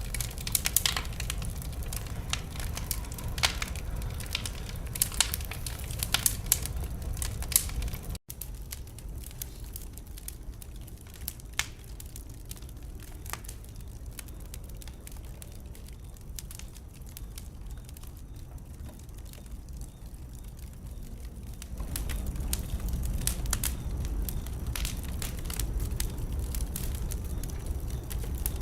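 Wood fire in a fireplace crackling and popping over a low rumble of flames. About 8 s in the sound cuts out for an instant and comes back quieter with sparser pops, then grows louder and busier again about 22 s in.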